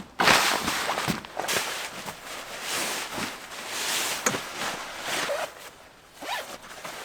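A zipper being pulled along its track in several strokes, one after another.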